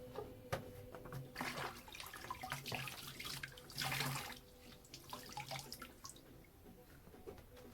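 Water from a tap running into a sink in short spurts, with a few knocks and clatters in between.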